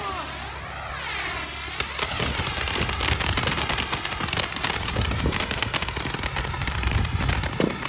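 A firework going off: a hiss for about two seconds, then a dense, rapid crackle.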